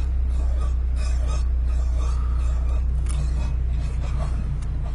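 GR Corolla running with a steady low hum, and a faint squeak from the left front wheel recurring about once or twice a second. This is the squeaking noise that appeared after drift practice, which a dealer inspector guessed was something caught in a rotating part.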